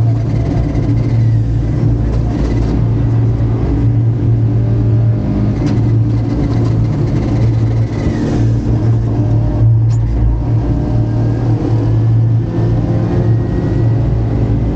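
Rally car's engine running hard at speed, heard from inside the cabin, a loud steady drone with road and tyre noise underneath.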